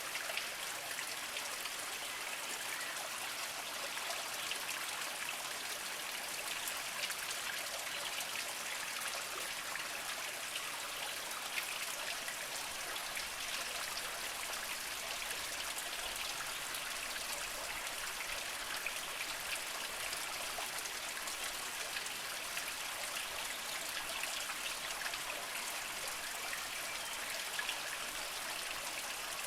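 Small spring water trickling and splashing over mossy rocks in a steady patter of fine drips and runnels, with no deep rush.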